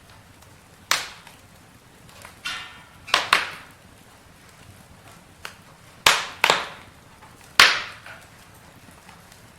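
Campfire crackling: about six sharp wood pops, some in quick pairs, over a faint steady background. There is a brief whistling hiss about two and a half seconds in.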